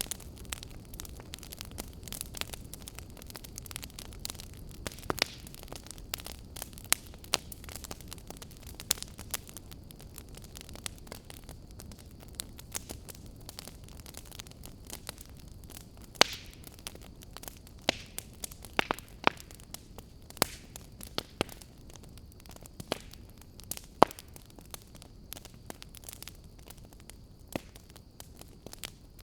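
Wood fire crackling in a fireplace: irregular sharp pops and snaps over a low steady rush, with a few louder pops past the middle.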